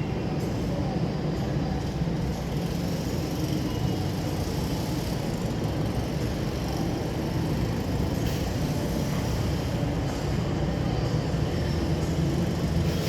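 Steady, low rumbling outdoor din, like traffic noise, with no distinct bangs; a couple of faint cracks.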